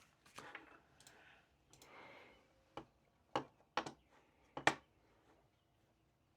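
Soft rustling, then about five sharp clicks and taps in quick succession in the second half, the sound of small objects handled on a desk.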